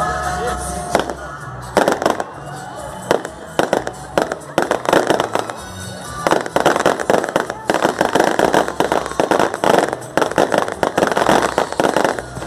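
Fireworks going off: sharp bangs from about a second in, turning into a dense rapid crackle from about halfway.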